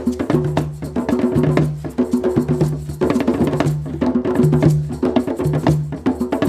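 Rhythmic percussion music: wood-block-like clicks in a steady groove over a short low note repeating about once a second.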